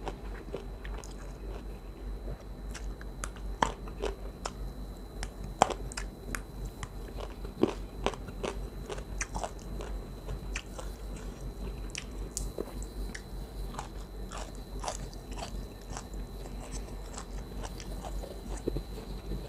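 A person chewing and biting food close to the microphone: wet mouth clicks and soft crunches, with a few sharper crunches. A steady low electrical hum runs underneath.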